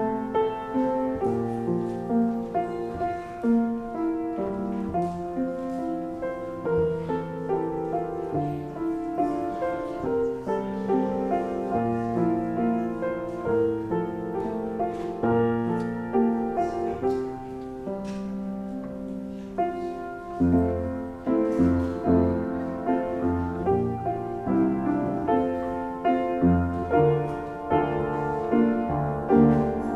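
Piano music: a piece of held chords and single notes, each struck and then ringing, with no pause.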